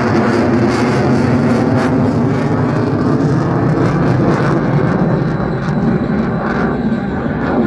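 Loud jet noise from an F-22 Raptor's twin Pratt & Whitney F119 turbofans flying past the crowd, a steady deep rumble whose high hiss drops away about halfway through.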